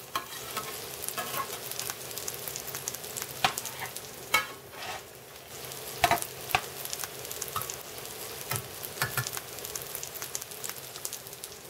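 Eggplant patties sizzling and crackling in hot oil in a stainless steel frying pan, with several sharp clinks and scrapes of a metal spatula against the pan.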